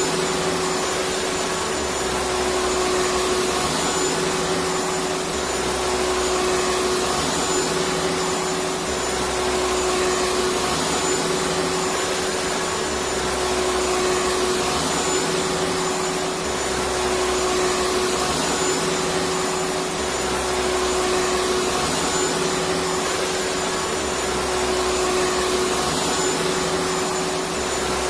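Electric vacuum cleaner running steadily: an even rush of air with a constant motor whine, and a low hum that pulses about every two seconds.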